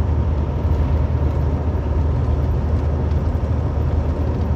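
Semi truck heard from inside its cab while driving on the highway: a steady low diesel drone mixed with even road noise.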